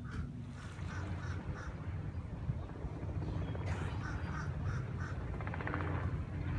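A bird calling in quick runs of short, nasal calls, about four calls to a run, once about a second in and again about four seconds in, over a steady low rumble.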